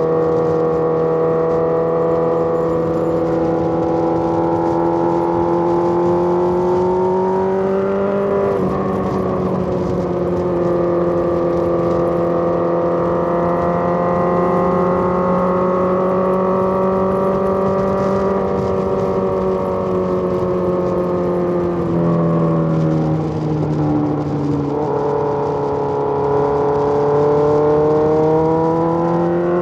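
Suzuki GSX-R1000's inline-four engine pulling steadily on the road, its pitch climbing slowly and dropping sharply as it shifts or rolls off: once about eight seconds in, twice more past twenty seconds, then rising again near the end.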